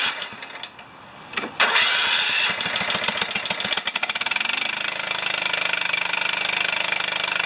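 John Deere STX38 lawn tractor engine catching about one and a half seconds in and settling into a steady, fast-firing run. The exhaust is loud because the muffler is cracked and leaking.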